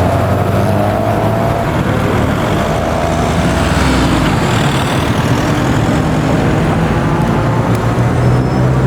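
Classic car engine running loud and close, its pitch shifting up and down with the revs.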